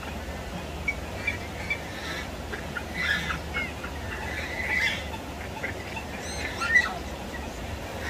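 Birds calling: a scattered series of short chirps and squeaky calls, with a few rising whistled calls and the loudest call about seven seconds in, over a steady low background rumble.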